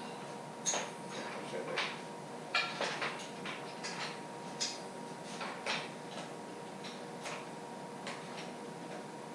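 Scattered light metal clinks and knocks, a dozen or so at uneven intervals, from a hoist chain and hardware as the engine and transmission are shifted into place, over a faint steady hum.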